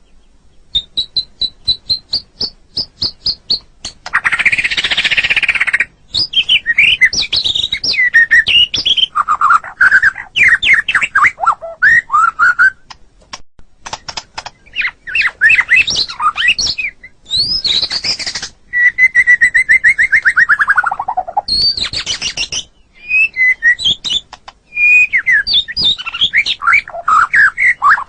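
White-rumped shama (murai batu) singing a varied song of whistled phrases and quick trills, with a harsh chattering burst about four seconds in and a long whistle sliding downward around twenty seconds in. A run of sharp clicks sounds under the opening phrases.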